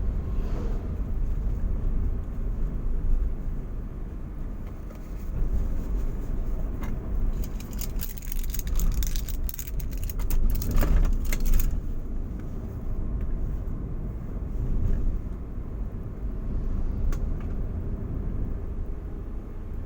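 A car driving, with a steady low rumble from engine and road. A stretch of rattling and clicking comes about halfway through.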